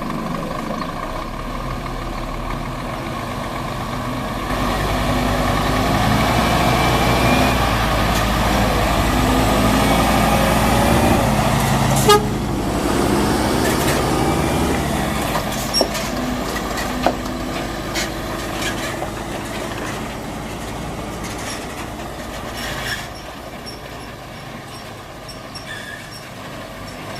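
Scania R540 truck's V8 diesel engine running under load, growing louder over several seconds and then slowly easing off. A sharp snap about twelve seconds in, and a few lighter clicks a few seconds later.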